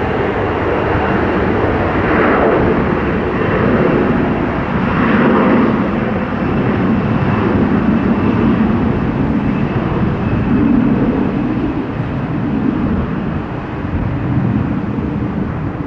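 Jet engine noise of a heavy Boeing 777 on short final, a steady rush with a faint high whine that swells and eases every second or two. Gusty crosswind buffets the microphone, adding a low rumble.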